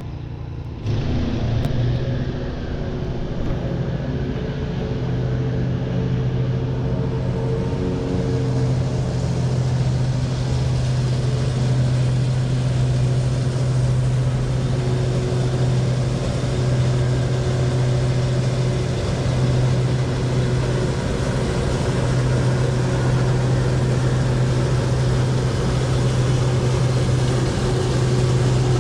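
Engine running steadily at a constant speed, a continuous low hum that starts just under a second in and holds unchanged.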